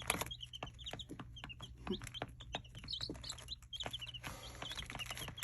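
Baby chicks peeping with many short, high notes, mixed with quick sharp taps of chickens pecking at feed.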